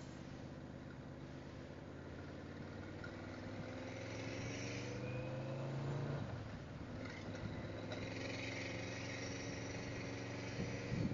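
Yamaha V-Max's V4 engine pulling away in traffic, its note rising as it speeds up, dropping sharply about six seconds in at a gear change, then rising again.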